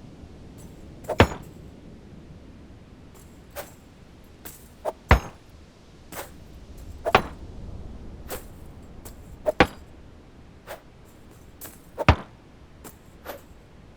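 A series of short, sharp clicks and knocks at irregular intervals over a low steady hiss, the loudest striking about every two and a half seconds.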